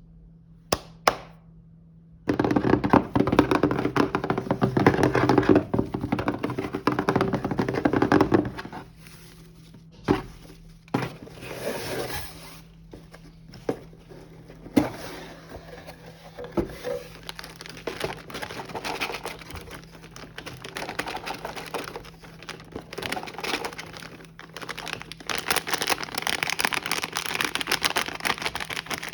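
A box of packaged snacks being unpacked by hand. A couple of sharp knocks open it, then several seconds of loud rustling packaging, then scattered taps and softer rustling that grows busier near the end.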